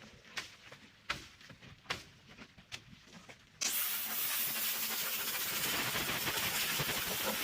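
A few sharp clicks, then, about three and a half seconds in, a pressure washer's spray starts abruptly and keeps going as a steady, loud hiss.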